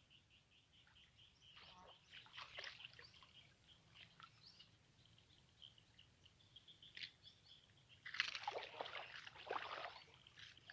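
Quiet flooded-swamp ambience: a run of short, high chirps repeating throughout, then, about eight seconds in, louder splashing and rustling of water, as from a paddle or small boat moving through the swamp.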